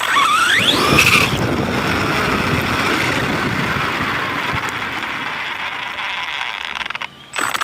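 RC monster truck's motor whining up in pitch as it accelerates over the first second, then running steadily with a rushing noise, dropping out briefly near the end before picking up again.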